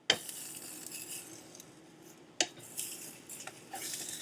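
A cooking utensil knocking against a pot, with a sharp clack at the start and another about two and a half seconds in, and hissing from the cooking food in between.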